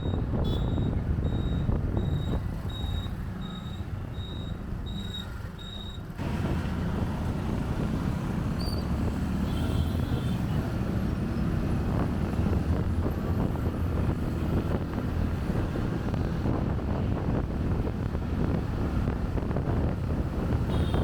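Motorcycle riding in city traffic, the engine and traffic rumble mixed with wind on the microphone. A high electronic beep repeats about twice a second for the first six seconds; then the beeping stops and the wind and engine noise grows louder.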